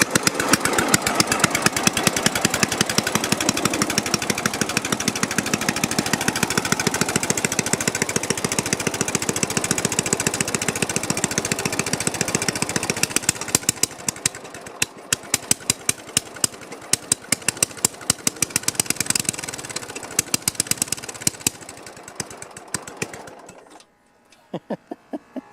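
Rebuilt Tecumseh engine of a Sears LT1036 lawn tractor running loud with fast, even firing after cranking right up; about halfway through it drops lower and the firing turns uneven before it cuts out near the end.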